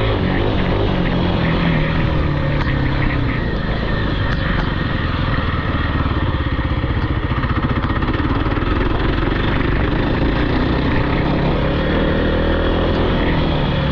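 Off-road vehicle engine running under throttle. Its pitch drops over the first couple of seconds, then holds a fairly steady drone.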